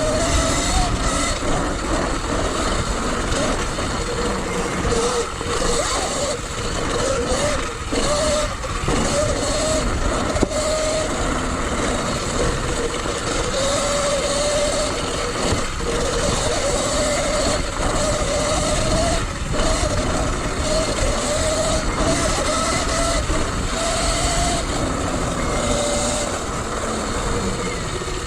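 Sur Ron electric dirt bike's motor whining, its pitch rising and falling with the throttle, over steady wind and tyre noise as the bike is ridden.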